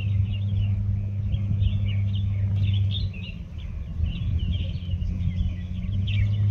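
Small birds chirping and twittering in quick, overlapping calls, over a steady low mechanical hum that is louder than the birds. The hum fades about three seconds in and returns near the end.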